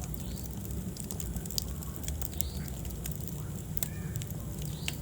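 Wood fire burning in a fireplace, crackling with scattered sharp pops over a steady low rumble of flame.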